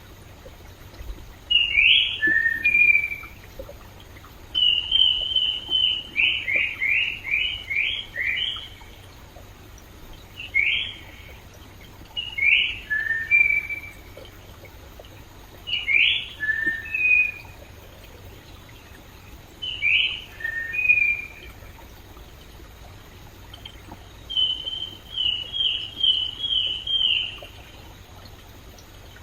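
A songbird singing repeated phrases of clear whistled notes, alternating a short phrase of a few falling notes with longer runs of rapid repeated notes, every few seconds. A soft, steady rush of a flowing stream lies beneath.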